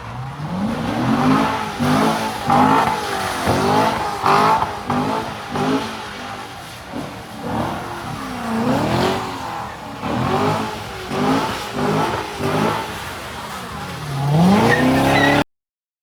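Car engines revving hard over and over, the pitch sweeping down and back up about once a second. The sound cuts off abruptly near the end.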